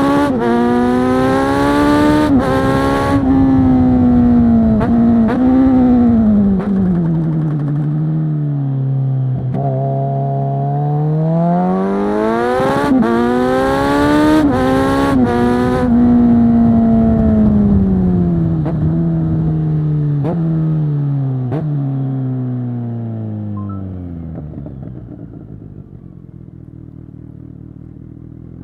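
A 2022 Kawasaki Z900 SE's inline-four running through a Zard full-system exhaust, heard from the rider's seat. The revs climb twice through quick upshifts, each shift a brief dip in pitch, with wind rushing on the microphone. After each climb the revs fall away on a closed throttle, the second time slowly, down to a low rumble near idle near the end.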